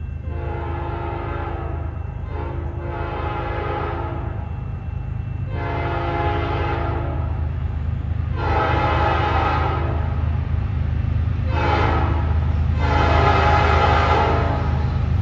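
Freight locomotive horn sounding a series of mostly long blasts, one of them shorter near the end, growing louder as the train approaches, over the steady low rumble of the diesel locomotives.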